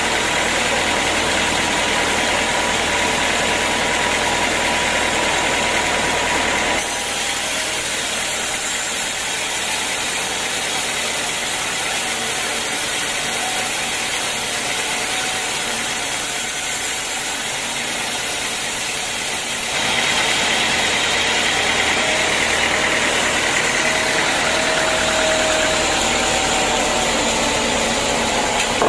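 Sawmill machinery running steadily with a loud, even mechanical noise. Its character shifts abruptly about seven seconds in and again about twenty seconds in.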